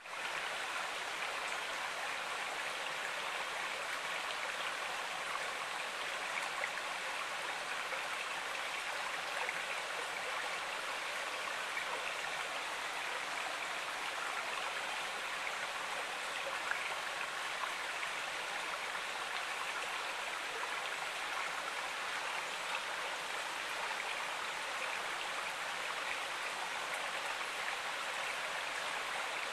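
Stream water flowing, a steady even rush that fades in at the very start and holds unchanged.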